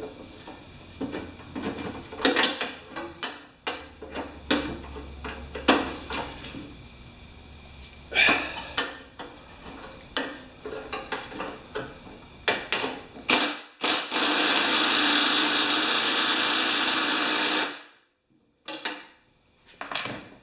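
Hand tools working on a lawn mower's wheel bolt, with scattered metal clicks and knocks as it is loosened and tightened to take up slack. Near the end comes a loud, steady hiss lasting about four seconds that cuts off suddenly.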